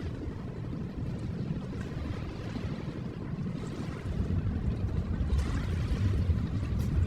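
Ocean waves on a shore: a steady low rumble of surf that swells louder about four seconds in as a wave washes up.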